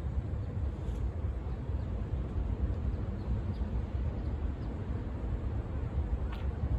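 Diesel railcar standing and idling, a steady low rumble.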